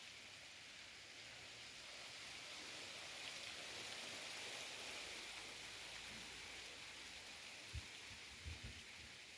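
Faint steady hiss, like rain or sizzling, with a few soft low thumps near the end.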